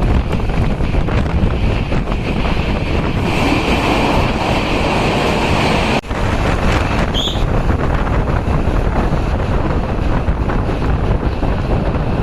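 A train running, heard from on board, with heavy wind blowing on the microphone. The noise breaks off for a moment about six seconds in, and a brief high chirp comes just after.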